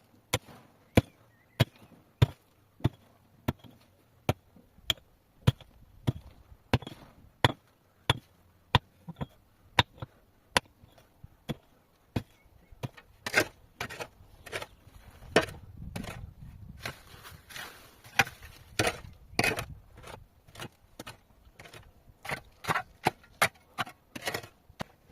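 Steady series of sharp hand-tool strikes, about one and a half a second, turning quicker and less even about halfway through.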